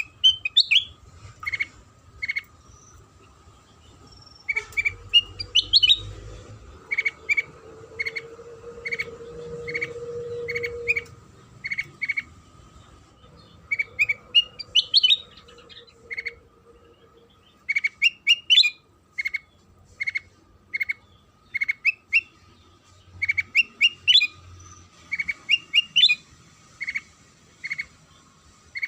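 Silver-eared mesia (kutilang sutra) singing: a string of short clear notes, repeated every half-second or so, broken up by quick rising phrases, played as a lure song. A faint steady hum runs underneath, and a low tone comes in from about five seconds in until about eleven seconds.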